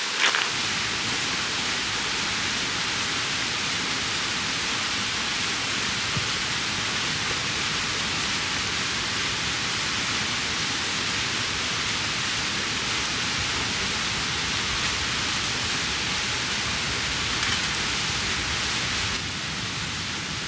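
Mountain stream rushing: a steady, even wash of flowing water, dropping slightly in level near the end.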